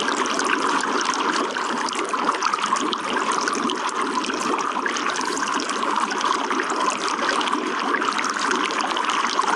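Running water trickling and splashing steadily, a dense even patter with no pauses.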